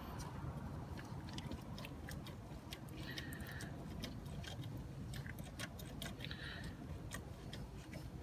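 Faint, irregular clicks and light metallic taps of hand tools working on the AC compressor's mounting bolts in a cramped engine bay, with two brief squeaks about three and six and a half seconds in.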